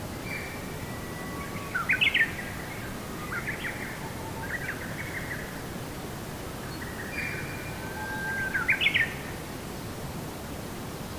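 A songbird singing two phrases about six seconds apart, each ending in a few quick, loud up-and-down notes, over a steady background hiss.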